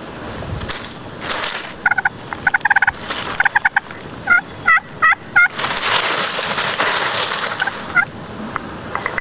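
Wild turkey gobbling: bursts of quick rattling notes, then several rising-and-falling call notes, with a few seconds of rushing noise midway.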